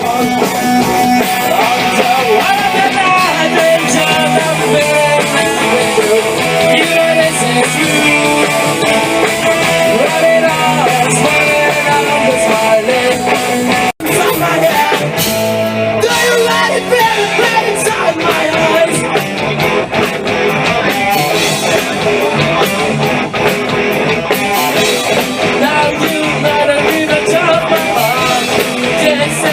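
Rock band playing live, electric guitar and a singing voice over bass and drums. About halfway through the sound drops out for an instant and resumes mid-song, where one snippet cuts to the next.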